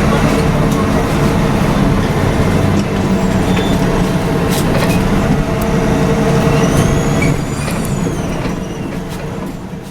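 Volvo B7RLE city bus heard from the rear seat: the rear-mounted six-cylinder diesel and drivetrain run with a steady hum, while the body rattles and knocks over the road. About seven seconds in, a high whistle rises and falls, and the sound gradually eases off over the last few seconds.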